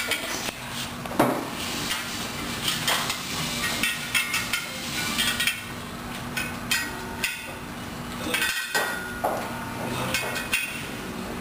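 Irregular metal clinks and knocks of parts and tools being handled on a workshop bench, with a steady hum underneath.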